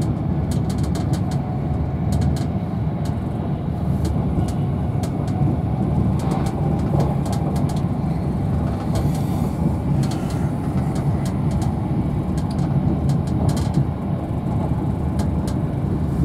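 Cabin noise of an Avanti West Coast Class 390 Pendolino electric train running at speed: a steady low rumble of wheels on rail, with scattered light clicks.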